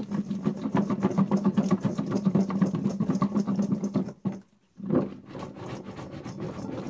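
Seasoned potatoes rattling and knocking inside a lidded bowl shaken hard by hand to coat them in oil and seasoning, in a fast, continuous rattle that pauses briefly about four seconds in, then picks up again. A steady low hum runs underneath.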